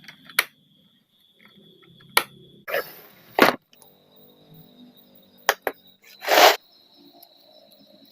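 Small metal parts of an old rusty drawer lock clinking and knocking, five or six sharp separate clicks spread out, with a short rasping hiss about six seconds in. A faint steady high tone runs underneath.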